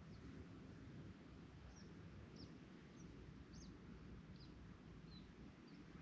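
Faint, short, high chirps of a small bird, about eight over a few seconds, each a quick downward flick, over a low steady background rumble.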